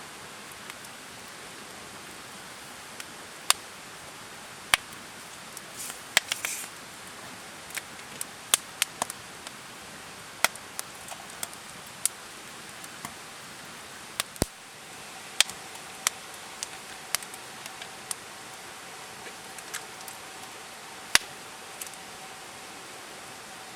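Wood campfire burning with a steady hiss and irregular sharp crackles and pops, a few of them loud. A faint steady high tone joins about halfway through.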